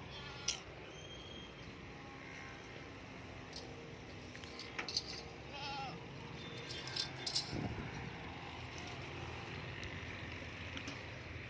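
Livestock-market ambience: a few short, wavering bleat-like calls from the animals over a steady low background, with scattered knocks and clatter.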